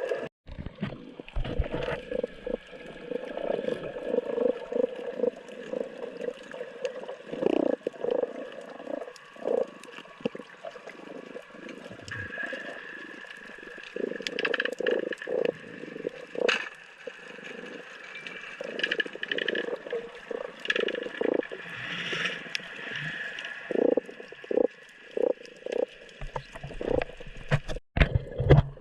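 Water gurgling and sloshing in irregular bursts.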